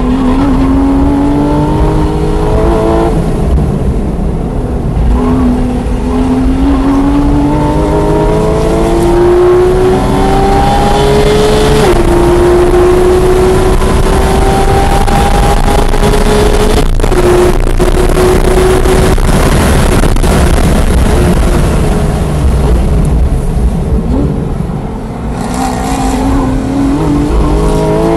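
2016 Porsche 911 GT3 RS's naturally aspirated flat-six at full throttle from inside the cabin, rising in pitch through the gears with quick upshifts about three, twelve and seventeen seconds in. Near the end it goes quieter as the driver lifts and brakes for a corner, then climbs in pitch again under acceleration.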